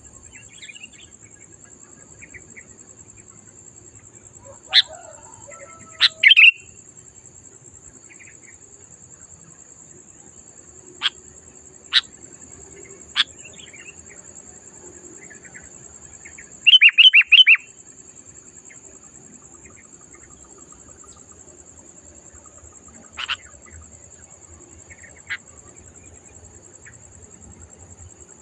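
Sooty-headed bulbul calling: scattered short, sharp notes, with a quick run of four loud notes a little past halfway. Underneath runs a steady high-pitched whine and a low hum.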